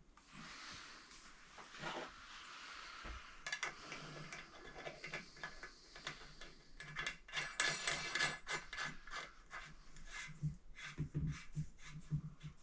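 Hands-on work with tools and parts: irregular rubbing and scraping, then a run of light clicks and knocks from about the middle on.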